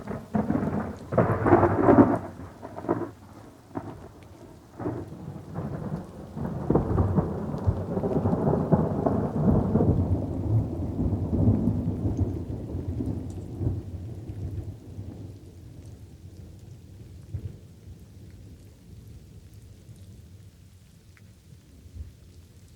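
Thunder over light rain: a crackling clap opens, then a long rolling rumble builds a few seconds later and fades away, leaving steady light rain.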